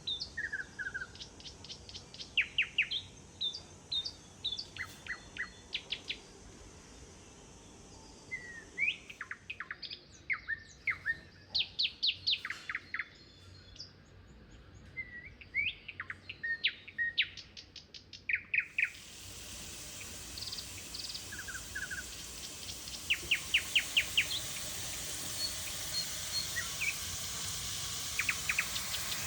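Small birds chirping and singing: short high calls and quick trills, several birds overlapping. About two-thirds of the way through, a steady hiss rises under the birdsong.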